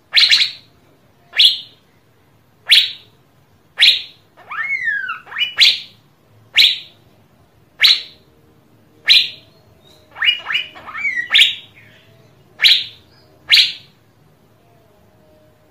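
Asian fairy-bluebird calling: a sharp, short note repeated about once a second, broken by whistled notes sliding down and up about four seconds in and again about ten seconds in.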